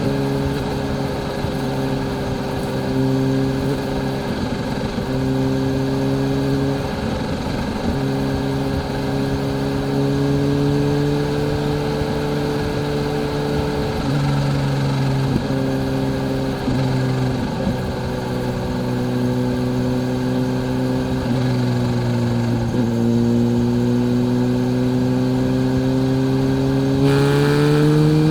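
Kawasaki Z H2's supercharged inline-four engine running at a steady cruising pace. Its note holds nearly level, with a few brief breaks and small shifts in pitch, and rises near the end as it revs up.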